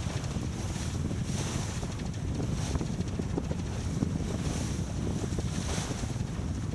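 Wind buffeting the microphone over water rushing past the hull of a sailboat under way. It is a steady low rumble, with a brighter hiss swelling now and then.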